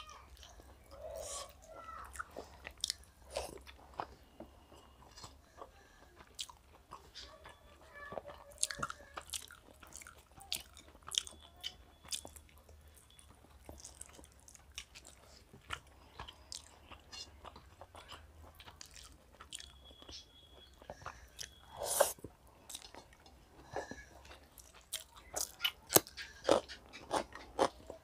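Two people eating chicken biryani with their hands, close to the microphone: irregular wet chewing and smacking mouth sounds. The sounds come thicker toward the end, with one louder smack about three-quarters of the way through.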